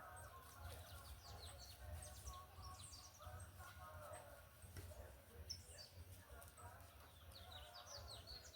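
Faint birdsong: many quick high chirps, each sliding down in pitch, over a steady low hum.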